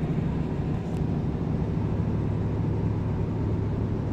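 Motorhome engine idling steadily, a constant low hum heard from inside the cab.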